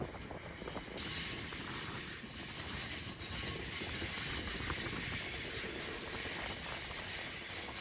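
Rocky Mountaineer passenger train running along the track: a steady rumble with many small clicks from the wheels on the rails. About a second in, a loud steady hiss comes in on top and holds.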